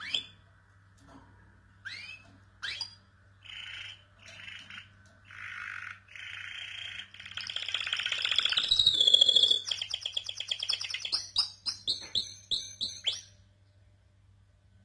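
Domestic canary singing a full song phrase: a few short rising chirps, then buzzy notes building to a loud, fast rolling trill, ending in a run of quick separate notes that stops near the end. A faint steady low hum lies underneath.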